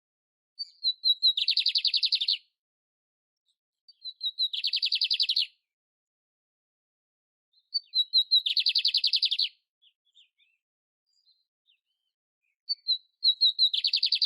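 Canário-império (canary) singing: four phrases, each a few short clear notes leading into a rapid, buzzy trill lasting about a second, repeated roughly every four seconds. The last phrase is cut off at the end.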